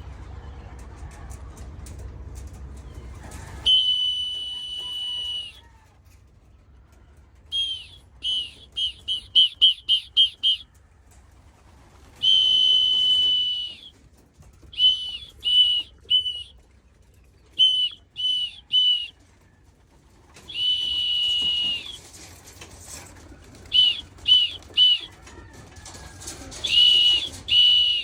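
A whistle blown to call young racing pigeons down to the loft: long steady blasts alternating with quick runs of short toots, one run about eight toots long.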